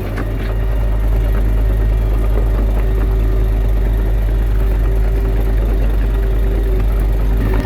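Komatsu D21A bulldozer's diesel engine running steadily: a constant, loud low drone with no change in pitch.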